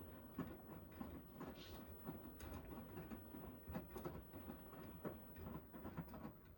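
Beko washing machine running faintly: a low steady hum with soft, irregular clicks and taps.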